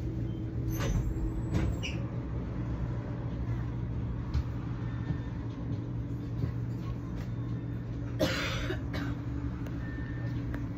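Steady low drone of a train, with a few knocks near the start and a short hiss about eight seconds in.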